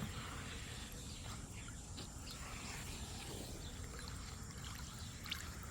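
Faint wet sloshing and rubbing as straight vinegar is spread around a bird bath basin, over a steady low rumble, with one small click near the end.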